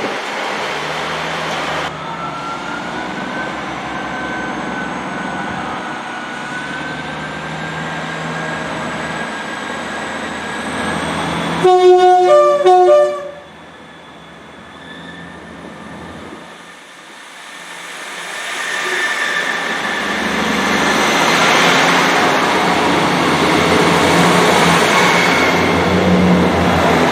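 Train running through the station, sounding a loud two-note horn for about a second and a half about twelve seconds in. Sound then drops away, and a train's rumble builds again over the last several seconds as another passes.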